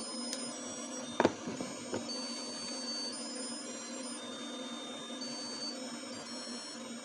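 A faint, simple electronic tune of thin, high, held notes over a steady hum, with a sharp click about a second in and a lighter one shortly after.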